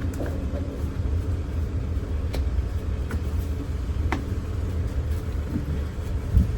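A steady low rumble with a few light clicks in the middle and a single louder knock near the end, from parts being handled during work on a truck door.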